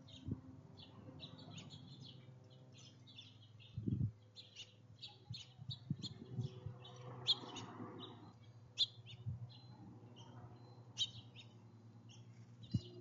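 Small songbirds at a feeder chirping in quick, short, high notes, over and over, with a few low thumps and knocks on the feeder mixed in.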